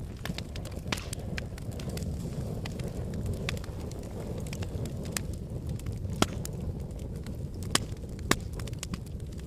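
Wood fire burning in a fireplace: a steady low rumble of flames with scattered sharp crackles and pops, three louder pops in the second half.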